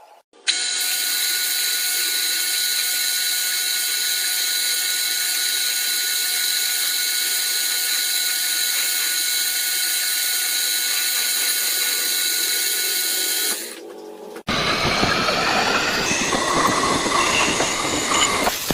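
Machine tool running with a steady, multi-toned whine, then a cut to a rougher, noisier cutting sound about 14 seconds in.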